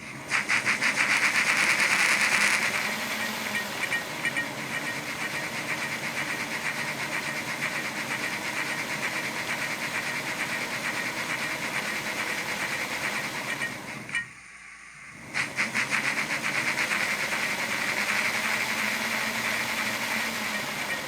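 Soundtraxx Econami steam sound decoder playing a BR Standard Class 5 steam locomotive chuff through a small model speaker: quick, even exhaust beats over hiss, loudest for the first couple of seconds. It stops about 14 seconds in and starts again a second later.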